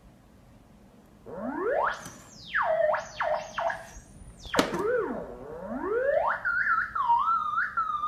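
Theremin sounding as a cat paws at its pitch antenna, the cat's body near the rod bending the tone. After about a second of quiet, a single tone glides up and down in long sweeps and wobbles, with a sharp knock about four and a half seconds in.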